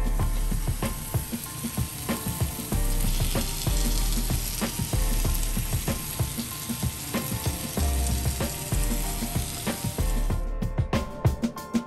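Tomato-onion masala sizzling in a frying pan as curd is added, under background music with a ticking, clicking beat and low bass notes. The sizzle stops about ten seconds in, leaving the music.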